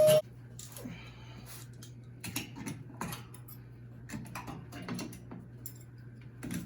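Scattered light clicks and taps of hand tools and metal parts being handled while a washer is taken apart, over a steady low hum. A louder steady sound cuts off right at the start.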